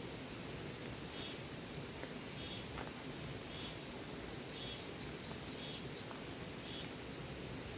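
Insects calling over a steady hiss: high pulsing calls about once a second, joined by a thin, steady high whine from about three seconds in.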